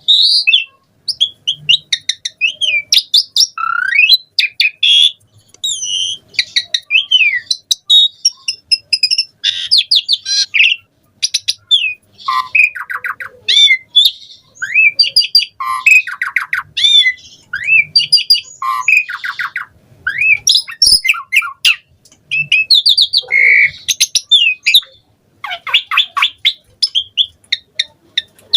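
Asian pied starling (jalak suren) singing continuously in a long, varied string of whistled glides, harsh squawks and rapid buzzy trills, its song packed with mixed phrases in the style keepers call 'full isian'.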